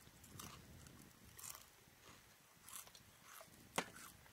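Faint mouth sounds of people eating: chewing and biting food, with a few short crunches, the sharpest one near the end.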